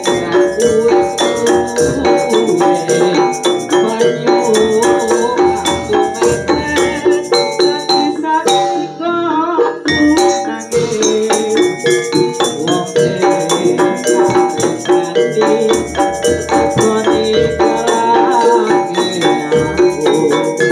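Javanese gamelan (karawitan) ensemble playing: dense, continuous struck metallic tones with percussion. About nine seconds in the texture thins briefly and a single wavering melodic line comes through before the full ensemble resumes.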